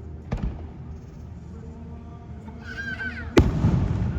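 Aerial fireworks bursting: a sharp bang about a third of a second in, then a much louder bang near the end, each followed by a low rolling rumble.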